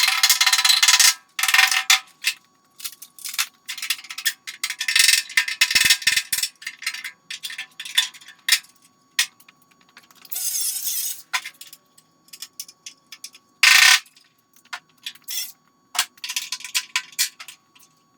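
Electric welder crackling in short, irregular bursts with brief silent gaps, welding holes in a car fender shut with a series of tacks.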